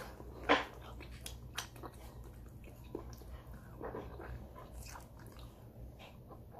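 A person chewing and smacking their lips while eating sauced fried chicken with rice, with scattered short wet clicks and a louder smack about half a second in.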